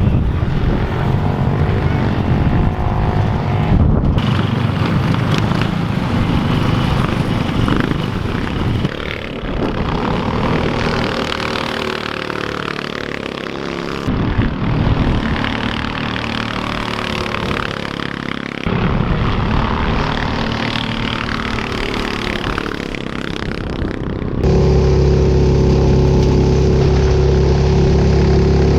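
Motor vehicle engines running and revving in a string of short clips cut one after another. The last few seconds hold a steadier, louder low drone.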